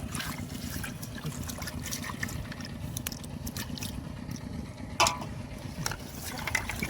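Shallow muddy water splashing and sloshing as fish are grabbed by hand, with many small sharp splashes and one louder slap about five seconds in, over a steady low rumble.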